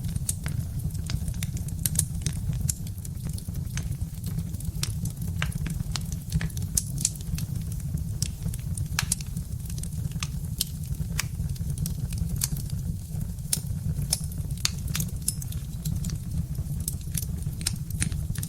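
Birch-wood fire crackling, with many sharp irregular pops and snaps over a steady low rumble.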